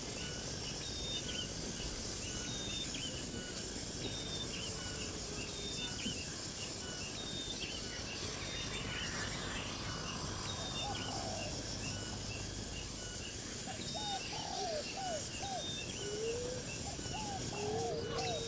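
Birds calling: a short high call repeated about once a second, joined from about halfway by lower, looping calls.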